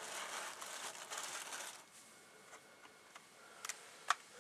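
Rustling of packaging as a model train unit is lifted out of its box. The rustle stops after about two seconds, and a few small clicks follow, the sharpest near the end.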